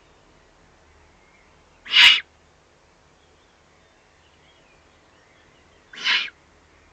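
Eurasian eagle-owls at the nest giving two short, harsh, hissing calls, one about two seconds in and another about four seconds later.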